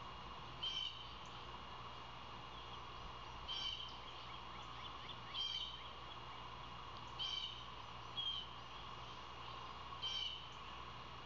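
A bird calling in short bursts, six times about every one and a half to two seconds, over steady outdoor background noise.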